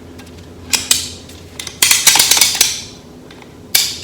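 Hard objects being handled, clinking and clattering: two single clinks, then a rattling run of clicks about two seconds in, and one more sharp clink near the end.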